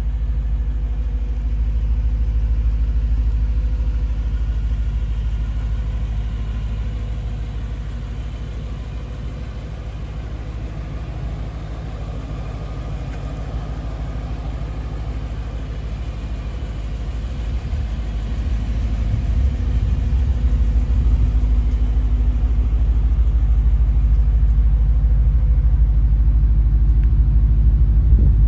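BMW E92 M3's 4.0-litre V8 idling with a steady low rumble, dipping a little in loudness through the middle and getting louder again near the end.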